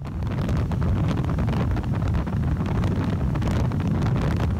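Wind buffeting the microphone of a motorcycle moving at speed, over a low, steady road rumble.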